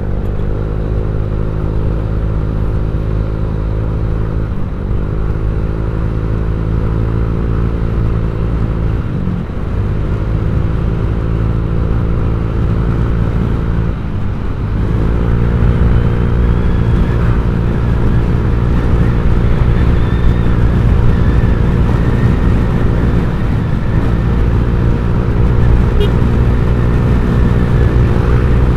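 Honda Vario 150 scooter's single-cylinder engine running through an aftermarket ZRC copy-CMS exhaust, holding a steady note. The note dips briefly about four times as the throttle eases off and comes back, and runs a little louder in the second half.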